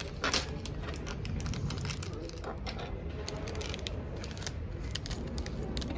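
Lego box contents being handled: a run of small sharp clicks and crinkles from plastic pieces and packaging, busiest in the first few seconds, over a steady low background hum.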